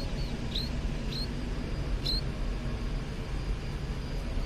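Baby bird cheeping: short, high, hooked chirps, about five in the first two seconds, then none. A steady low rumble runs underneath.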